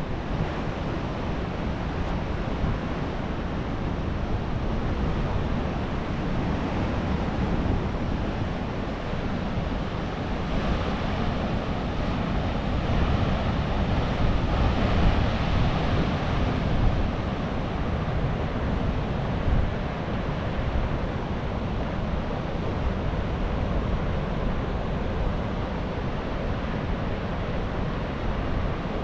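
Atlantic surf washing and breaking steadily, swelling louder for a few seconds around the middle, with wind rumbling on the microphone.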